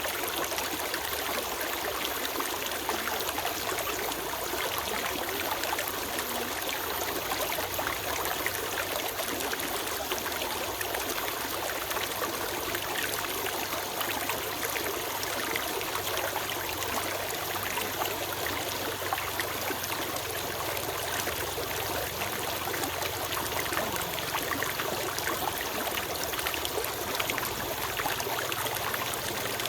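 Forest stream flowing steadily over stones, a continuous rush of water with fine trickling and splashing.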